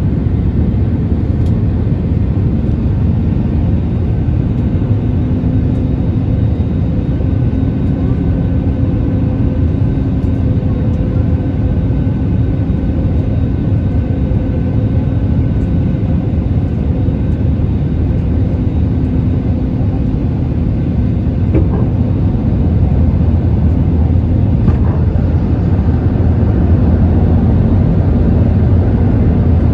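Cabin noise inside an Airbus A320neo descending to land: the steady roar of airflow and its CFM LEAP-1A26 engines, with a faint steady hum-like tone through the middle, growing slightly louder near the end.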